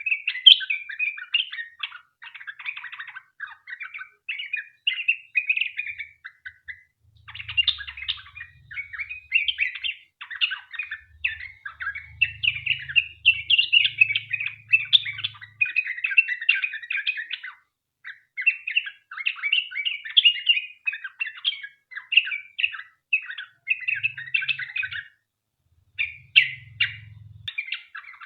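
Yellow-vented bulbul (trucukan) singing long, rapid strings of chattering, bubbling notes, broken by a few short pauses.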